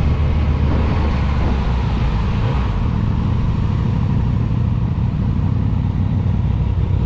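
Motorcycle engine running steadily while being ridden, under an even rush of wind and road noise.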